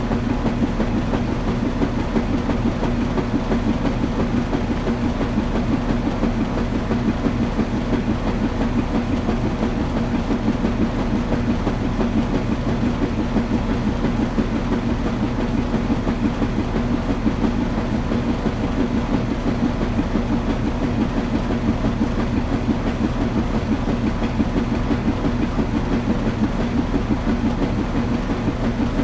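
Washing machine running: a steady low hum and rumble with a fast, even churning flutter that never lets up.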